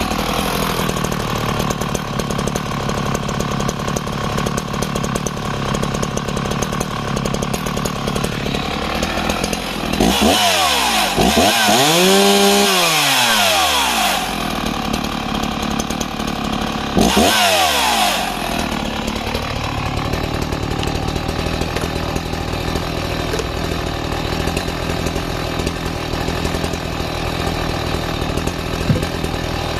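Husqvarna 61 two-stroke chainsaw idling after a warm restart with no throttle set. It is revved up twice, about ten seconds in and again a few seconds later, each time climbing in pitch and falling back to a steady idle.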